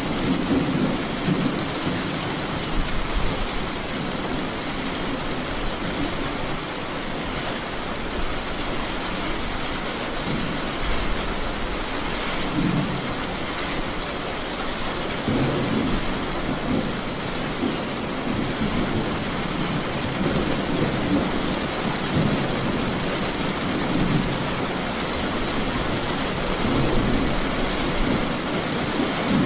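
Steady rain hissing, with low rolling rumbles of thunder swelling up several times: near the start, twice around the middle, and again near the end.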